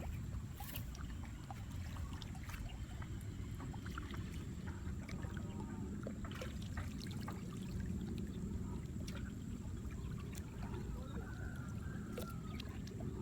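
Shallow water trickling and sloshing with scattered small clicks and splashes over a steady low rumble.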